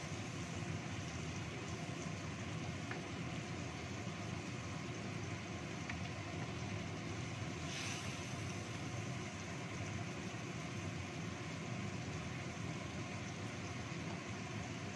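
Red spice paste frying and bubbling in a wok over a gas burner: a steady rumbling hiss, with a brief louder hiss about eight seconds in.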